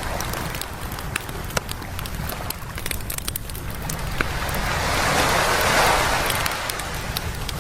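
Beach campfire crackling with frequent sharp pops over a low steady rumble, while a wave washes in, swelling to its loudest about six seconds in and then ebbing away.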